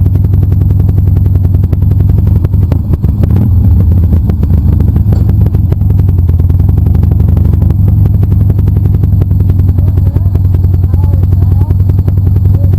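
Motorcycle engine running steadily under way, a loud low engine note with fast, even firing pulses.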